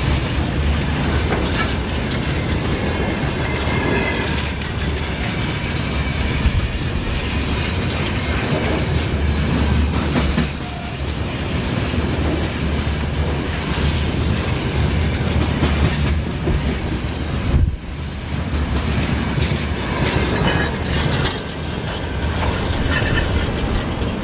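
A train running past close by, its wheels clattering steadily over the rail joints, with a brief drop in the noise about three-quarters of the way through.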